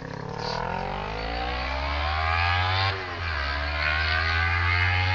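Kawasaki Ninja 250R's parallel-twin engine running with no exhaust fitted, unmuffled. Its pitch climbs for about three seconds, drops sharply, then climbs again.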